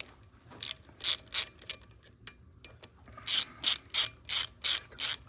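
Hand ratchet wrench being worked to loosen a fastener, its pawl clicking in separate strokes: a few at first, then after a short pause a steady run of about three strokes a second.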